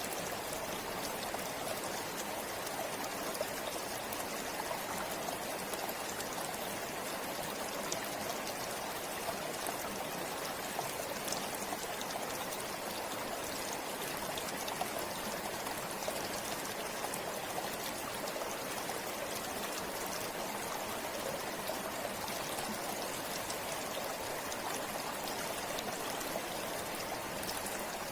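Forest river flowing steadily over stones, a continuous rushing of water with small splashes and trickles.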